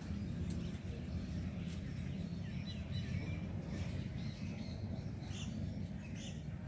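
Small birds chirping now and then, short high calls about once a second, over a steady low background rumble.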